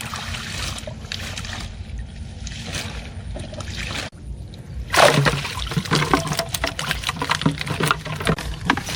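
Water sloshing and trickling, then busier and louder splashing with small knocks from about five seconds in, after a brief sudden drop.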